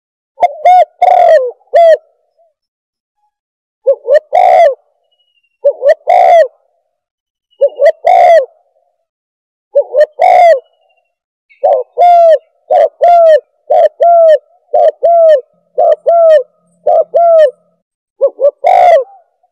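Spotted dove cooing, a recorded call of the kind played as a hunting lure: short, pitched coo phrases in groups separated by silent gaps, with a run of about eight quick coos in a row in the middle.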